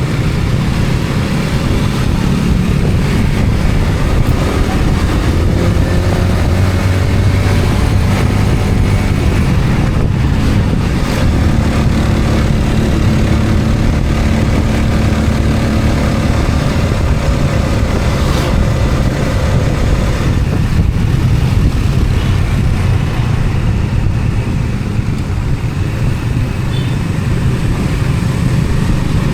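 Steady road noise of a motor vehicle on the move: an engine running under a constant rush of tyre and wind noise, with a faint hum drifting in pitch in the middle.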